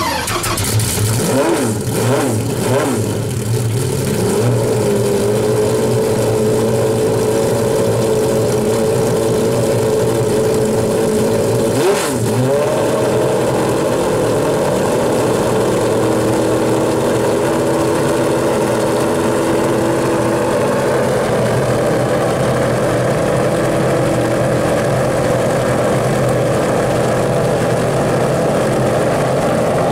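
Pagani Zonda Revolución's Mercedes-AMG V12 running from its quad exhaust just after start-up: a few quick revs in the first three seconds, then a steady idle. About twelve seconds in there is one short rev, after which the idle settles at a slightly higher pitch.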